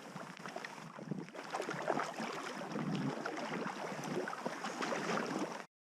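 Packraft being paddled in to the bank: irregular splashing and knocking of water around the raft and paddle. It breaks off suddenly near the end.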